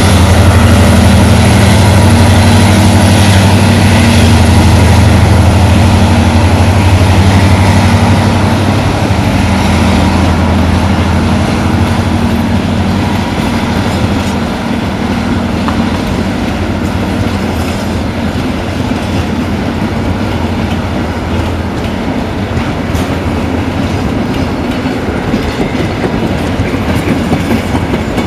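A train passing close by. The locomotive's low, steady drone dominates at first and fades after about nine seconds. The wagons then roll past with a rumble and the clickety-clack of wheels over rail joints.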